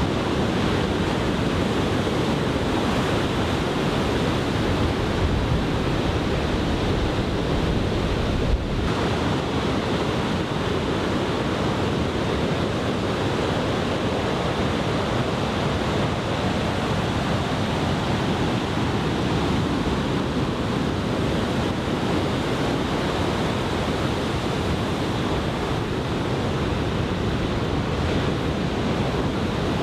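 Large typhoon-swell surf breaking and washing continuously, with wind on the microphone. A single brief bump about eight seconds in.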